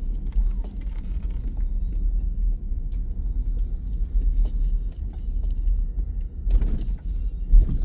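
Low, fluctuating rumble of a car driving, heard from inside the cabin, with a louder rush of noise near the end.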